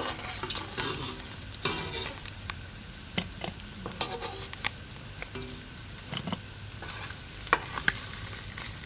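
Fish pieces sizzling in hot oil in a kadai, with a metal spatula clicking and scraping against the pan as the fried pieces are lifted out.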